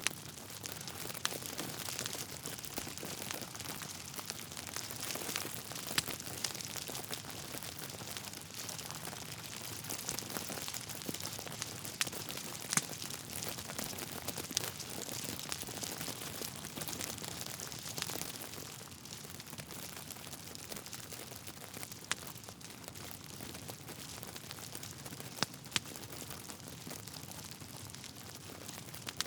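Logs burning in a fireplace: a dense, steady crackle with several sharp pops scattered through, somewhat softer in the last third.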